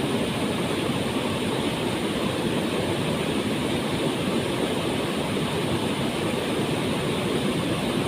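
Waterfall: water falling and rushing in a steady, unbroken roar, heaviest in the low-mid range.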